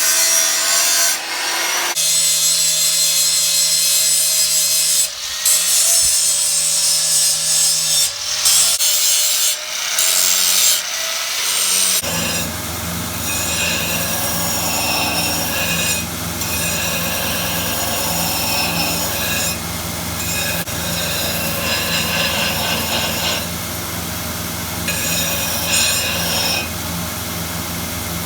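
Power grinding of a forged A1 tool-steel anvil devil, the steady rasping hiss of abrasive on steel. It comes in several short runs broken off abruptly, then about twelve seconds in settles into a longer, steady run with the grinder's motor humming underneath.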